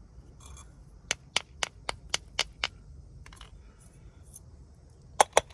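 Sharp plastic taps or clicks from handling the mini vacuum's clogged filter and dust cup: a run of about seven at about four a second, then three quick ones near the end.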